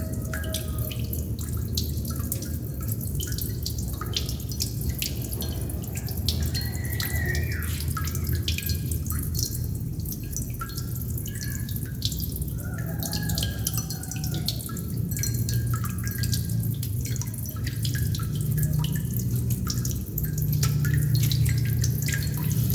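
Water droplets dripping steadily, many small drips and plinks a second, some ringing briefly as they land in water, over a steady low rumble.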